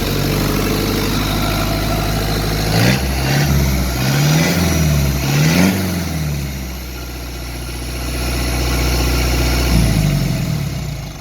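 Mitsubishi Fuso Canter's 4D34 four-cylinder turbo diesel engine idling, then blipped three times in quick succession so the revs rise and fall, settling back to idle with one more short blip, before it dies away near the end.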